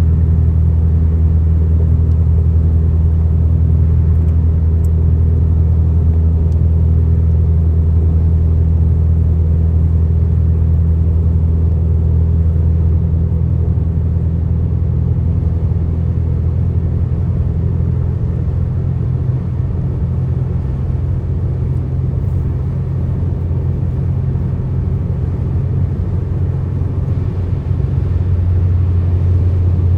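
Car travelling at highway speed: a steady low rumble of engine and road noise with a constant drone. It eases slightly midway and builds again near the end.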